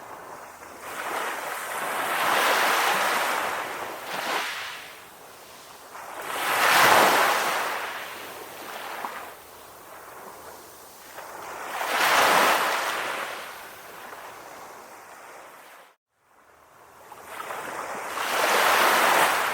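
Calm ocean waves washing in, each one swelling up and fading away, four times about every five seconds. The sound drops out to silence for a moment near the end.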